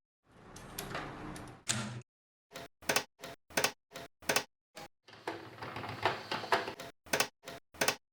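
Metal parts of a rusty Facit typewriter being handled and worked on: a stretch of scraping, then a run of about ten sharp clicks at roughly three a second, more scraping with clicks, and a few last clicks near the end.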